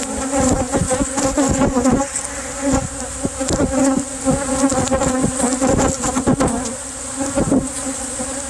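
Honeybees buzzing in numbers at close range: a loud, wavering hum that comes and goes as bees pass, broken by many short knocks.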